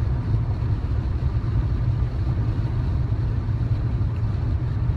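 A steady low rumble of background noise with no clear events in it.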